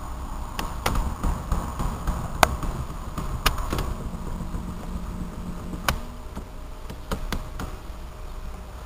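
Scattered sharp clicks and knocks from handling inside the Jeep's cabin, with a faint electric power-seat motor humming for about two seconds in the middle.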